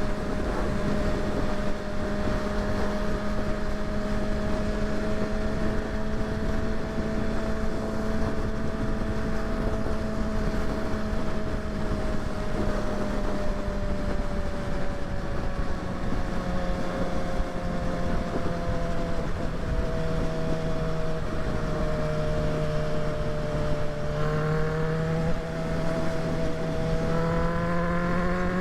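Kawasaki ZX-6R inline-four engine running at steady cruising revs under a constant rush of wind noise. The engine's pitch sags slowly, then climbs over the last few seconds as the bike accelerates.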